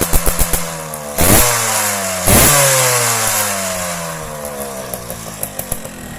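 Two-stroke Yamaha F1Z R engine in a Yamaha V80 motorcycle, running with quick, uneven firing pulses. It is blipped hard twice, about a second and two seconds in, and after each blip the revs fall slowly back toward a rough idle.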